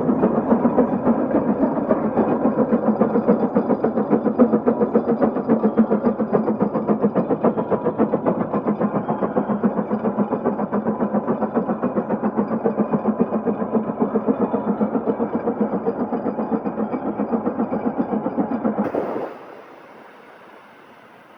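Case 150 steam traction engine working hard under the load of a big gang plow, its exhaust chuffing in a fast, steady beat of about four to five a second. Near the end the chuffing cuts off suddenly, leaving only a faint hiss.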